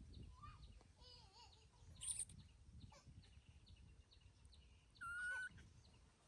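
A baby monkey's high-pitched cries: a few short wavering calls, a sharp squeak about two seconds in, and a longer steady cry about five seconds in, which is the loudest.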